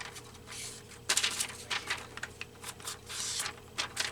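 Ink applicator rubbed along the edges of cut paper pieces to darken their white edges: a series of short, irregular scratchy swipes.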